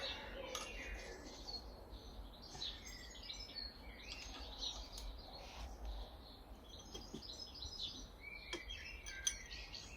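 Small birds chirping in the background, with a few faint clicks.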